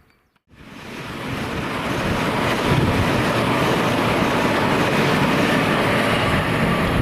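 Freight train passing on the line, its noise swelling in over about two seconds after an abrupt start and then holding steady and loud.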